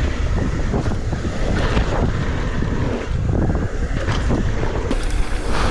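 Wind rushing over the microphone and mountain bike tyres rolling on loose, rutted dirt during a fast downhill descent, with scattered knocks and rattles from the bike over rough ground.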